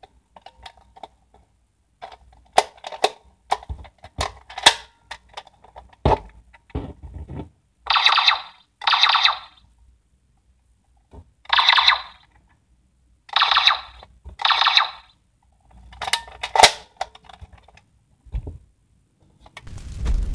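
Plastic clicks and snaps from a DX Gundephone50 toy being handled and switched over, then a series of short electronic sound effects from its speaker, each about a second long with pauses between them.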